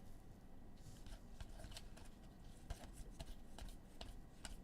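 Football trading cards being flipped through and slid against one another by hand, giving faint, irregular soft clicks and rustling.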